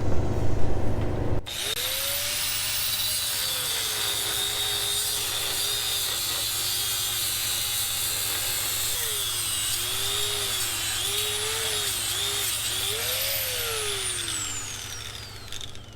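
Power cutting tool with a blade cutting through seized nuts, its motor pitch dipping and recovering as it is pressed into the cut, then falling as it winds down near the end.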